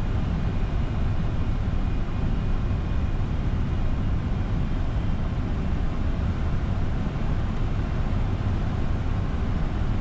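Steady flight-deck noise of a Boeing 747-400 freighter on short final approach: air rushing past the cockpit over the rumble of its engines, heard from inside the cockpit.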